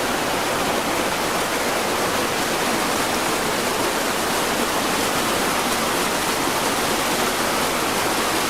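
Flash-flood torrent rushing: a loud, steady noise of fast-flowing water.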